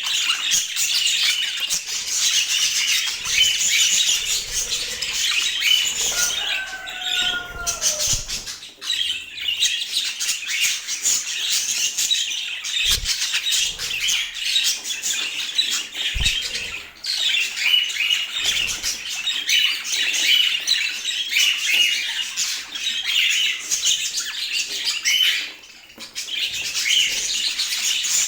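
Budgerigars chattering and warbling without a break. A couple of falling whistles come about six to seven seconds in, and two soft low thumps come later.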